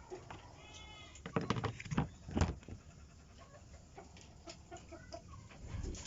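Chickens clucking, with a short call under a second in and a few small calls later. A cluster of sharp knocks comes between about one and two and a half seconds in.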